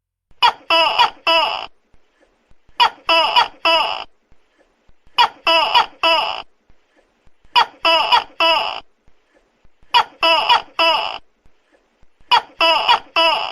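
Tokay gecko calling loudly: quick sets of four sharp call notes, each set repeating about every two and a half seconds with short pauses between.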